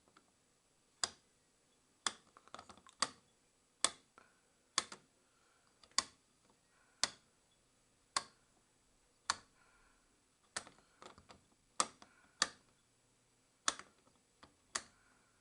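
Control dial of a Hotpoint Aquarius WMA33 washing machine being turned step by step. Each step gives a sharp click, about one a second.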